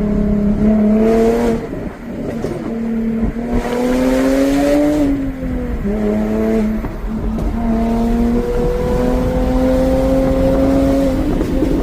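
Jaguar F-Type's supercharged 3.0 V6 through a valveless stainless straight-pipe exhaust, pulling under load on the road. Its pitch climbs, then drops back at each gear change, with a few shifts.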